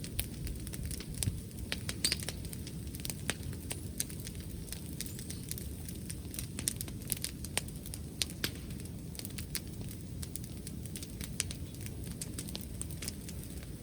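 Wood bonfire crackling, with irregular sharp snaps and pops over a steady low rumble.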